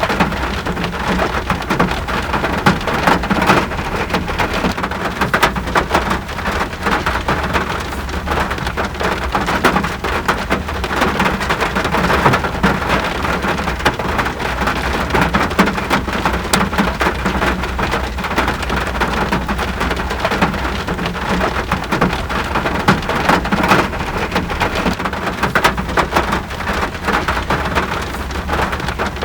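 Steady rain falling, a dense, even patter of drops striking surfaces with no let-up.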